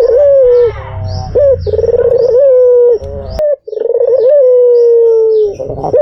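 White ringneck dove (puter) cooing loudly: repeated coos, each a quick rising note followed by a long note that slides slowly downward. Small birds chirp faintly high above, and a sharp click and a brief break come a little past halfway.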